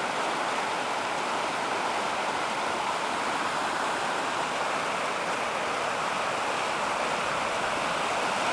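Brook in spring flood, high with snowmelt and rain, rushing steadily over rocks and fallen trees.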